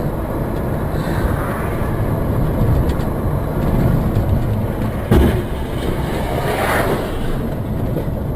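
Steady noise of a vehicle driving, heavy in the low end, with one sharp thump about five seconds in.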